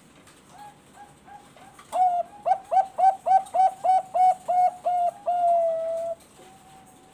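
Zebra dove (Thai 'bangkok' perkutut) singing: three soft coos, then a fast run of about ten loud, clipped coos at roughly three a second, ending in one long held note.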